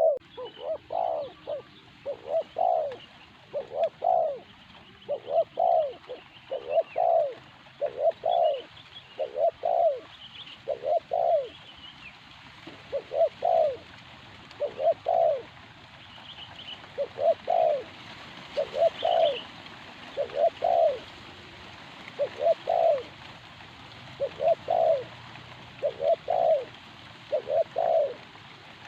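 Spotted dove (tekukur) cooing over and over, a steady run of low coo phrases repeating about every second and a half, with faint chirps of small birds higher up.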